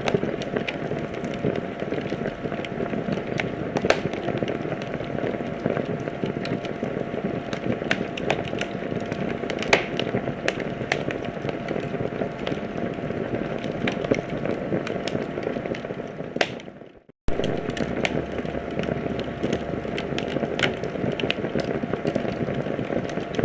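Wood fire burning in a fireplace: a steady hiss with frequent crackles and sharp pops. About two-thirds of the way through it fades out for under a second, then cuts straight back in, like a splice in a looped recording.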